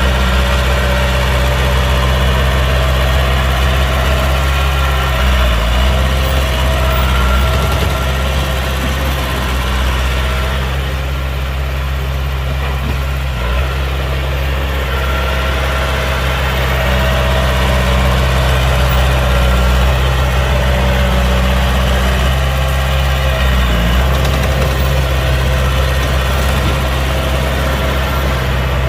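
Heavy diesel engine of earth-moving machinery running steadily at low revs, a deep even drone with small wavers in pitch now and then.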